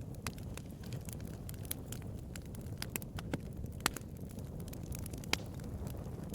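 Bonfire burning: a steady low rush of flame with irregular sharp crackles and pops from the wood, a louder pop just before four seconds in and another about five seconds in.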